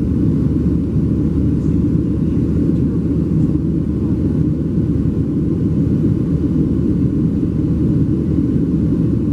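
Cabin noise of a Boeing 737-700 in its climb: its CFM56-7B turbofan engines at climb power and the rush of air along the fuselage make a steady, loud, low rumble.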